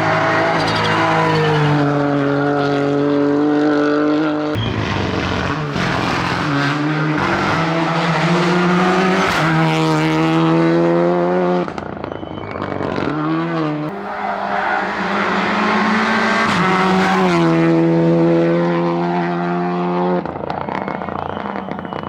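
Rally4 hatchback rally cars running flat out: a Ford Fiesta Rally 4 and then a Renault Clio Rally 4. The engine note climbs and steps down again and again as the cars shift quickly through their sequential gearboxes, with a sudden change about four seconds in.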